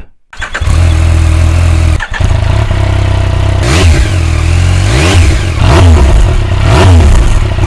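Yamaha Tracer 900GT motorcycle's inline-three engine running, with the throttle blipped three times; each rev rises and falls in pitch.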